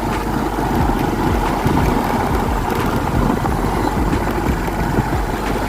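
Steady, loud noise of a vehicle on the move, with wind buffeting the microphone in irregular low thumps.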